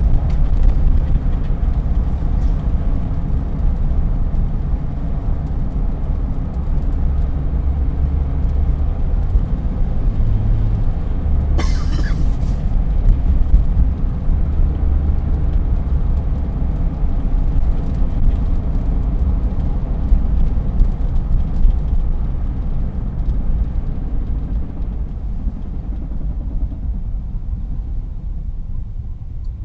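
Chevrolet Silverado 1500 Z71 4WD pickup driving with a steady low road and drivetrain rumble, the clunking that the owner suspects is a worn CV joint (or a wheel bearing or differential) coming when he lets off the gas around 25 mph. A short noisy burst sounds about twelve seconds in, and the rumble fades gradually over the last several seconds as the truck slows.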